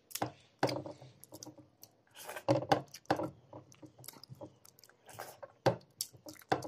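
Close-miked eating: wet, smacking chewing of a mouthful of curry-soaked rice, in irregular clicks and smacks with a louder cluster about halfway through.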